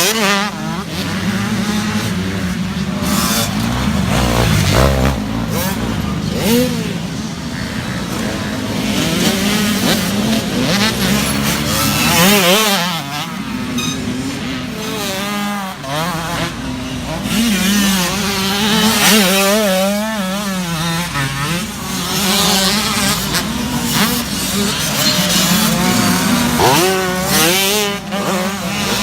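Several small youth dirt bikes racing, their engines revving up and down over and over, several at once with pitches rising and falling as they ride past.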